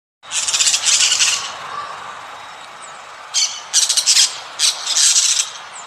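An animal's harsh, rasping calls: one long call near the start, then four shorter ones in quick succession after a pause.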